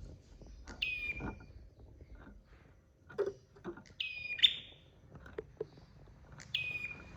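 Prenjak (prinia) songbird calling three times, each call short and bright with a held high note, with soft clicks and knocks in between.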